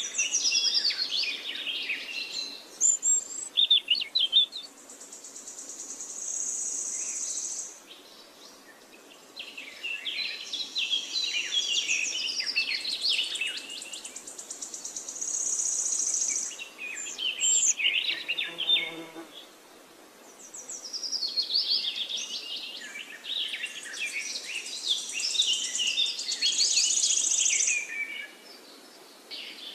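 Birds chirping and twittering in quick, varied phrases, together with a steady high buzz at times, in bursts separated by short lulls every ten seconds or so.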